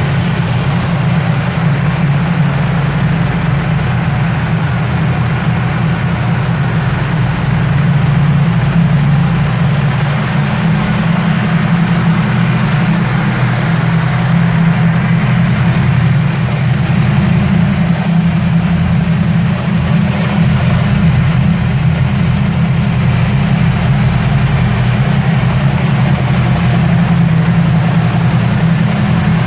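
A 2016 Yamaha R1's crossplane inline-four engine idling steadily, with no revving.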